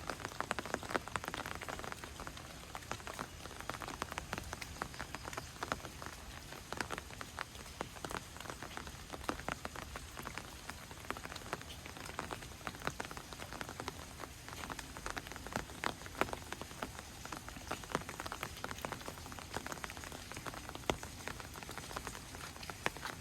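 Steady light rain pattering, with many close individual drops ticking on a hard surface.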